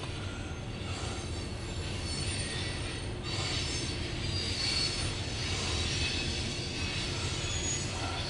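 Freight train rolling past with a steady low rumble of wheels on rail and high-pitched wheel squeal, which grows louder from about three seconds in. Heard from inside a car.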